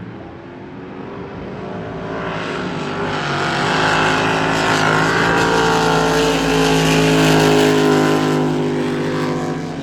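Race boat engines running hard as a boat passes close, the engine note growing louder for several seconds and then easing off near the end.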